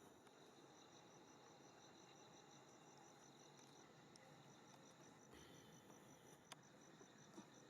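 Faint cricket chirping: a rapid, even train of high pulses, about six a second, over quiet outdoor ambience, with a faint click about six and a half seconds in.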